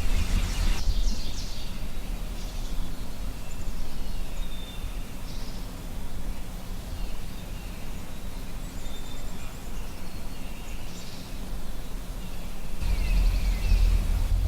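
Songbirds chirping and calling at intervals, some calls sliding down in pitch, over a steady low outdoor rumble that swells near the end.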